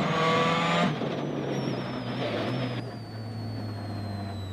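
World Rally car heard on board, slowing down. The engine note drops in pitch about a second in and settles low, while a high transmission whine falls steadily in pitch. A rushing road noise fades out a little before three seconds in.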